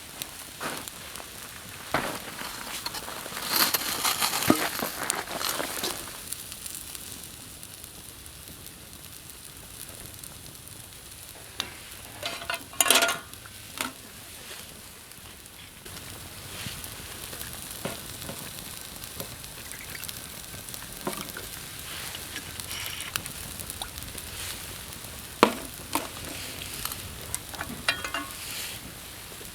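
Food frying and sizzling in a pan over a campfire, with scattered sharp clicks and knocks of a utensil; the sizzling is louder around three to six seconds in and again briefly around thirteen seconds.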